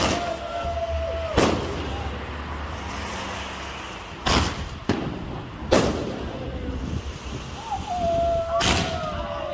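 Fireworks exploding in four sharp bangs spread over several seconds, over the steady noise of a crowd. A long wavering whistle-like tone is heard right at the start and again near the end.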